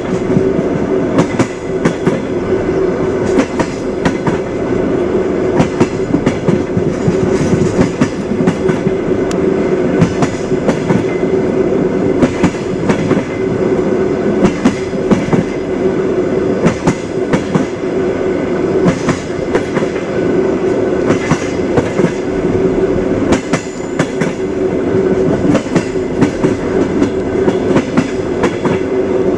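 A moving train's wheels clattering over the rails, with frequent sharp clacks over a continuous rolling rumble and a steady hum.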